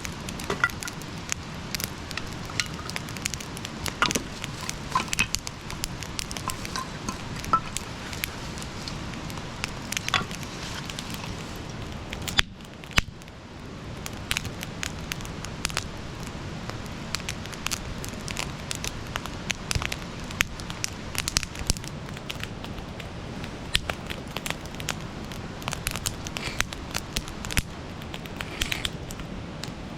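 Wood campfire crackling and popping: irregular sharp snaps over a steady hiss of burning, briefly quieter about twelve seconds in.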